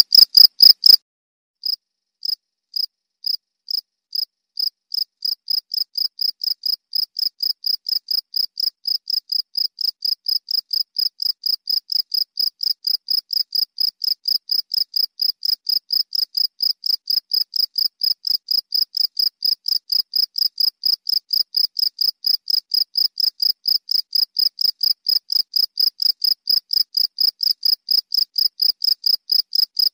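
Cricket chirping: a fast run of loud chirps cuts off about a second in. After a short gap, a new run of chirps starts sparse, then settles into an even rhythm of about three or four short, high chirps a second and slowly gets louder.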